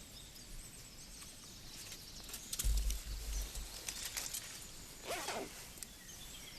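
Quiet outdoor ambience with faint scattered bird chirps. About two and a half seconds in there is a short low rumble with a rustle, and around five seconds a brief sound that rises and falls in pitch.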